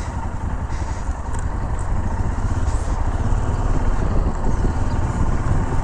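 Royal Enfield Himalayan's single-cylinder engine running at road speed while riding, heavily mixed with wind rush on the microphone.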